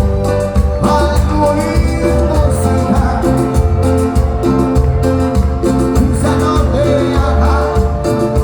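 Live cuarteto band music with singing, played over a steady, repeating bass rhythm.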